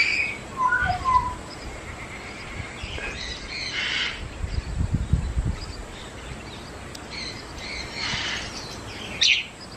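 Caged parrots and smaller birds calling: a few short chirps near the start, then several harsh squawks spread through the rest, with a low rumble in the middle.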